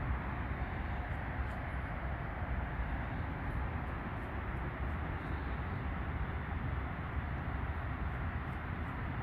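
Steady rumbling outdoor noise, even throughout, with no distinct bird call standing out.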